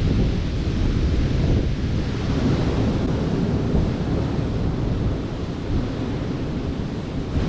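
Wind buffeting the microphone, a heavy steady rumble over the hiss of surf breaking on the beach.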